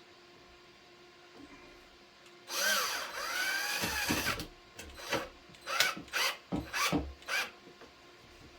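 Power drill driving a screw into the box fan's housing: one run of about two seconds with the motor pitch rising and falling, then four short bursts as the trigger is pulled briefly to snug the screw down.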